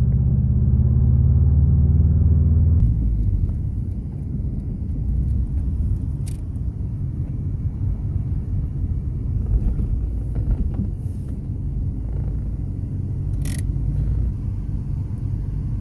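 1991 Subaru Legacy turbo's turbocharged flat-four engine heard from inside the cabin while driving. It holds a loud, steady drone for about the first three seconds, then drops abruptly to a lower rumble. A sharp click comes near the end.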